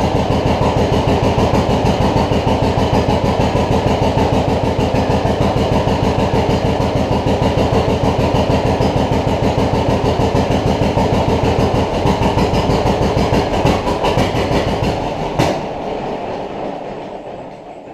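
1950 John Deere B two-cylinder tractor engine running at a steady, fast pop on its first start after a head overhaul. Toward the end the beats falter and slow as it runs out of the little fuel put in the carburetor, and it dies down with a sharp click just before. The owner notices a sound from the governor housing that he doesn't remember being there before.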